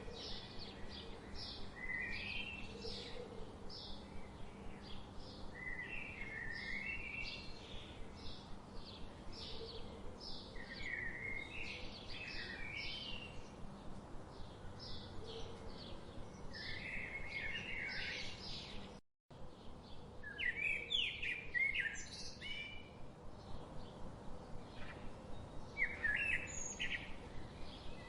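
Birds chirping: a steady run of short high chirps about two a second, with a lower warbling phrase every few seconds. The sound cuts out completely for a moment about nineteen seconds in.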